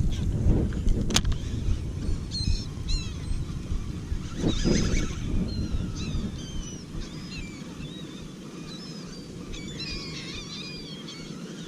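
A flock of seabirds feeding over a school of fish, calling with many short, high cries that overlap, thickest near the end. A low rumbling noise runs underneath, heavier in the first half.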